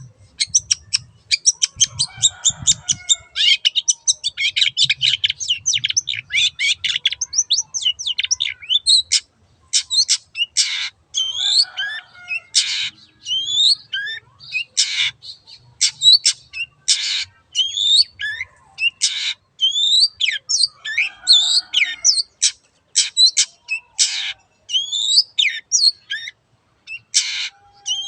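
Long-tailed shrike (cendet) singing: a fast run of chattering notes for the first nine seconds or so, then harsh rasping calls alternating with short, quick-sliding whistles.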